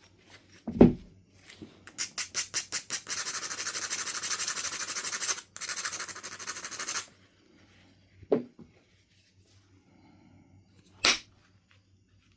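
Knife River flint being knapped: a heavy percussion strike about a second in, then quick scraping strokes that settle into about five seconds of steady grinding, as when an edge is abraded, broken once partway, then two more short, sharp strikes.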